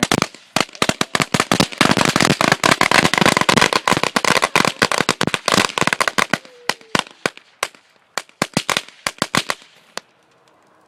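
Firecrackers packed inside a burning computer going off in a rapid, crackling barrage of sharp bangs. The bangs are thickest in the middle, then thin out to scattered single pops and stop shortly before the end.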